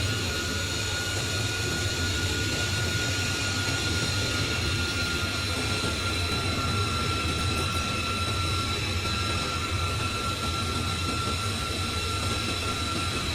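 Jet aircraft engines running steadily: an even rumble with a high turbine whine held on top, the whine drifting slightly lower over the seconds.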